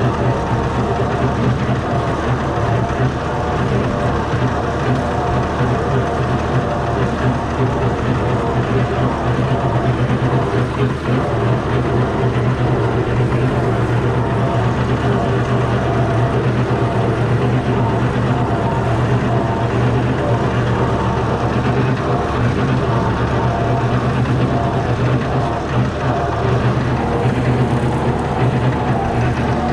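Fordson Major tractor's Perkins straight-six diesel engine running steadily at a constant speed.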